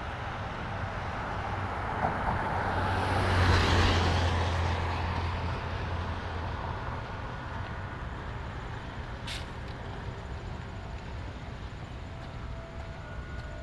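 A vehicle passing on a wet road, its tyre hiss and low engine hum swelling to a peak about three and a half seconds in and fading slowly away, over the steady patter of light rain. A single sharp click about nine seconds in.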